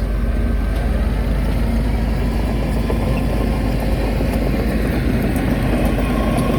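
Heavy construction machine's diesel engine running steadily with a deep, continuous rumble.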